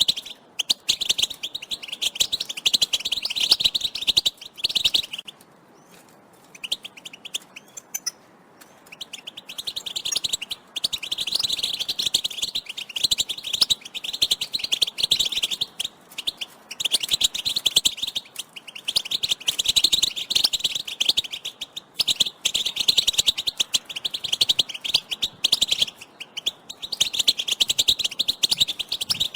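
European goldfinches giving dense, rapid twittering calls in long bouts. About five seconds in, the calling drops away for some four seconds to a few faint notes, then resumes.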